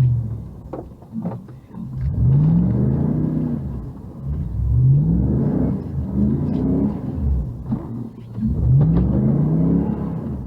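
A car engine revving up about four times in a row, each rev climbing in pitch and then dropping back, as the vehicle is driven through deep snow.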